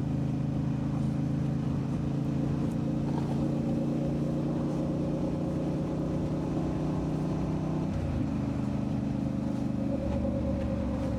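Motorcycle engine running at a steady cruise, its note dropping about eight seconds in.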